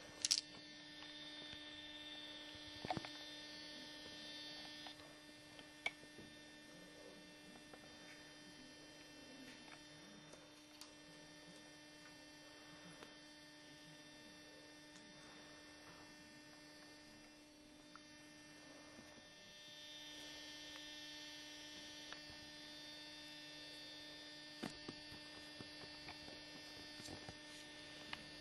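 Faint steady electrical hum, with a few faint scattered clicks.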